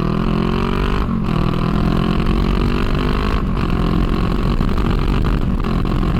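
Honda Rebel 500's parallel-twin engine pulling under acceleration, its pitch rising, with two brief breaks that sound like gear changes about a second in and about three and a half seconds in. After the second break it settles at a steadier pitch.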